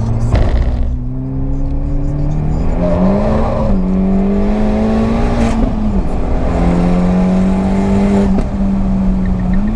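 Turbocharged Fiat Panda's engine (a T-Jet four-cylinder with a TD04 turbo) running hard under load. Its pitch climbs, then drops sharply at each gear change, several times over.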